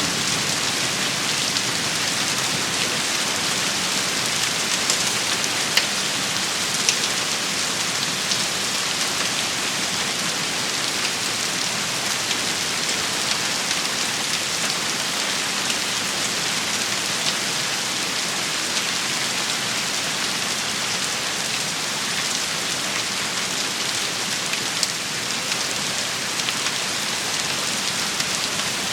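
Steady, heavy rain pattering on a surface, with a few sharper ticks of individual drops standing out about five to seven seconds in.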